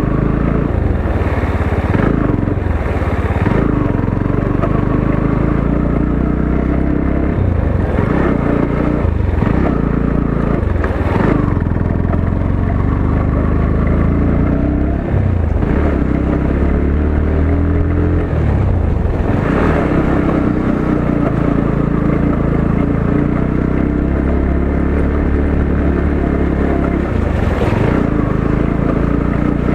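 Motorcycle engine running under way on a rough road. Its note rises and falls as the throttle is worked, with several rising sweeps around the middle.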